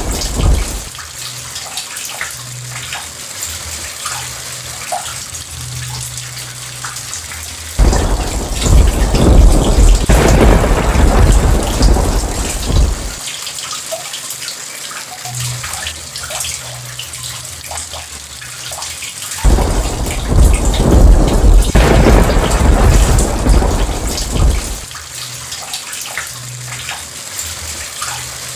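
Steady heavy rain, with two long rolls of thunder that break in suddenly and rumble for about five seconds each before fading back to the rain.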